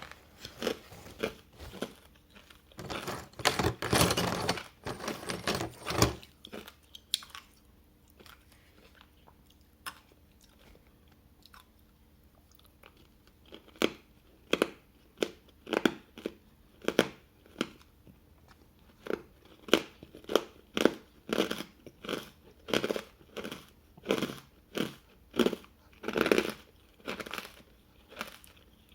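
Hard ice being bitten and chewed with loud, crisp crunches close to the microphone. A dense burst of crunching comes a few seconds in, then a quieter spell, then steady chewing crunches about one or two a second.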